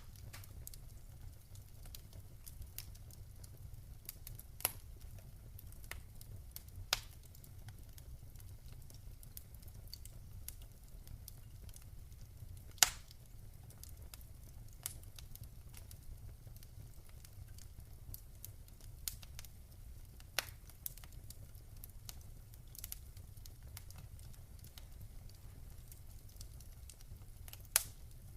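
Wood fire crackling: irregular sharp pops and snaps, the loudest about 13 seconds in, over a steady low rumble.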